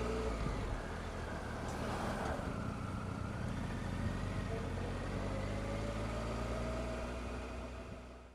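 Motorcycle engine running steadily under road and wind noise, fading out near the end.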